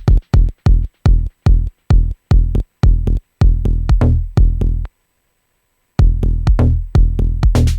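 Electronic dub techno pattern played from Maschine: a fast run of short, deep drum-machine hits with a pitched low end. It cuts out for about a second past the middle, then starts again.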